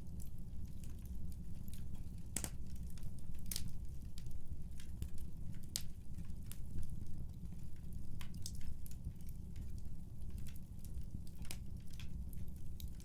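Wood fire burning in a fireplace: a steady low rumble of flames under irregular crackles and sharp pops, the loudest of them about two and a half, three and a half and six seconds in.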